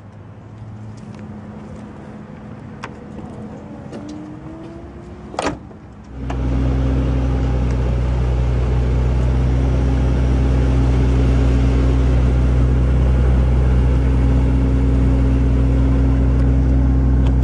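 A power trunk lid closes with a short rising motor whine and a latch click. About six seconds in, the Mercedes-Benz S65 AMG's twin-turbo V12 comes in loud and holds a steady, even idle hum.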